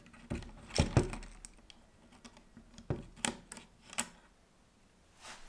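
Scattered small clicks and taps, about seven at irregular intervals, as the coupling is worked off a model locomotive's bogie.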